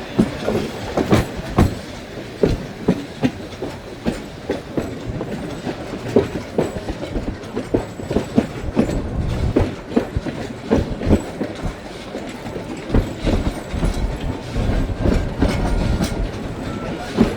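Train running on the rails with a low rumble, its wheels knocking and clicking irregularly over the rail joints.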